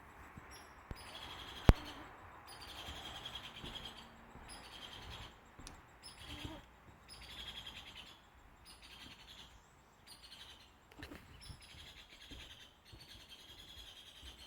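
A woodpecker giving its loud laughing call, a fast run of repeated notes, in several bouts. A single sharp click about two seconds in is the loudest moment.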